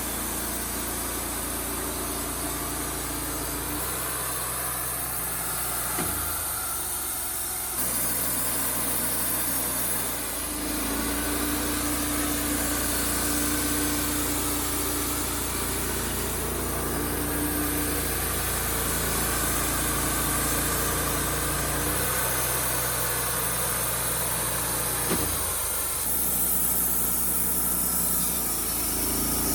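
Wood-Mizer LT35HD portable sawmill's engine running steadily, its tone changing several times as the load shifts.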